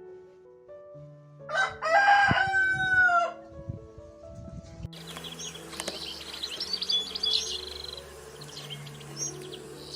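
A rooster crowing once, a single long call starting about a second and a half in that drops in pitch at its end. Then, from about halfway, high quick chirping of small birds runs over a steady hiss.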